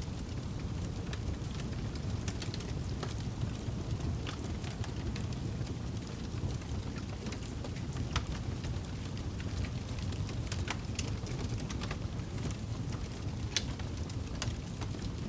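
Wood campfire burning: a steady low rush of flame with irregular sharp crackles and pops, a few of them louder, about eight seconds in and again near the end.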